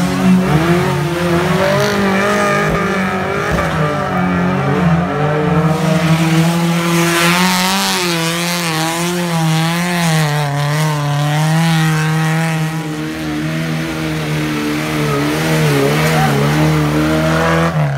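Off-road 4x4's engine held at high revs under load as it drives through deep mud, its pitch wobbling up and down.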